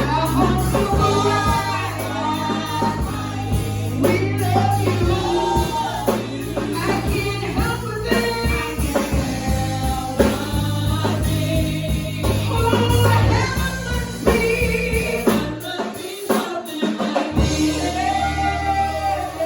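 Gospel choir and singers performing a praise song over a band with a steady bass line and tambourine; the bass drops out briefly near the end.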